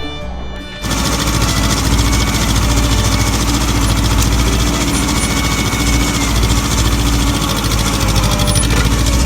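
Fiddle and guitar music for about the first second, then a sudden cut to the loud, steady running of a Ford 1700 tractor's diesel engine.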